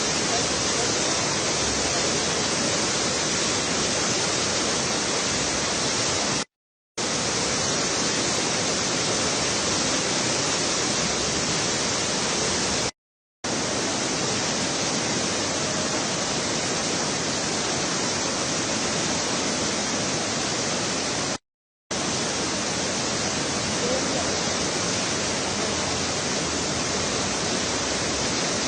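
Steady rushing of a river in flood, its water running high and fast, broken by three brief silent gaps.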